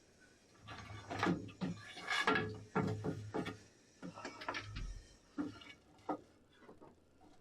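Irregular knocks, clicks and clatter of parts and tools being handled while a heater mounting plate is set in place in an engine bay. The knocks come thick and fast for a few seconds and thin out near the end.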